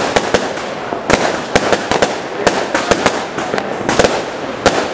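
Fireworks and firecrackers going off across a city, heard from a height: a fast, irregular string of sharp bangs, several a second, over a constant din of more distant ones.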